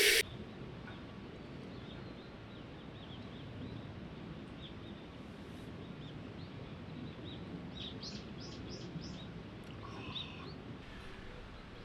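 Small birds giving short, high chirps over a steady low outdoor ambience, with a quick run of about five chirps near the two-thirds mark.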